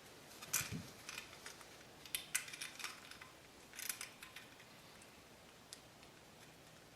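Faint metallic clicks and rattles of a Romex cable connector being handled and fitted into the knockout of a metal electrical box, in scattered clusters over the first four seconds and one more click near six seconds.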